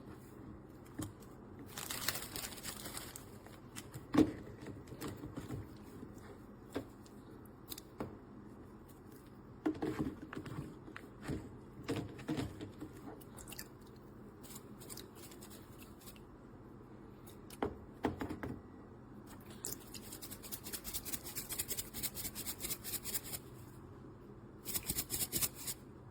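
Hands handling plastic items and packaging: scattered clicks and knocks, with bursts of crinkling about two seconds in and again near the end.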